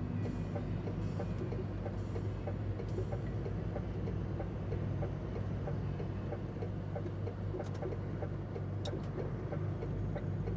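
Cab interior of a DAF XF105 truck: its PACCAR MX six-cylinder diesel engine running with a steady low drone. Music fades out in the first few seconds, and a couple of faint clicks come near the end.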